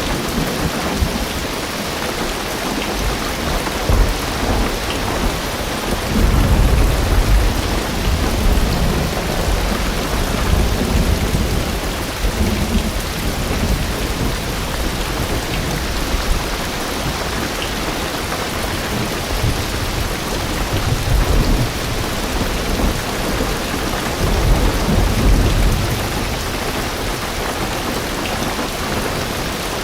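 Heavy rain drumming steadily on a car roof and windows. Deep rolls of thunder swell and fade several times underneath it.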